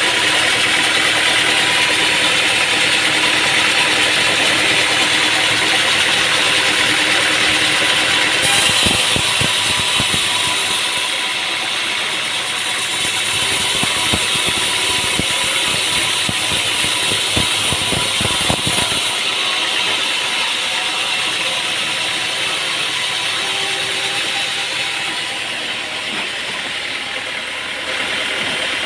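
Sawmill machinery running steadily. About a third of the way in, a run of rapid clattering knocks lasts roughly ten seconds.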